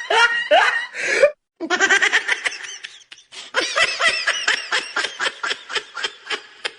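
A person laughing hard in quick, repeated bursts, in three bouts with brief pauses for breath.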